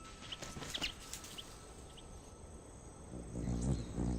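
Several short, high chirps from a silky-flycatcher in the first second and a half, over a steady, thin, high insect drone. A low hum comes in after about three seconds.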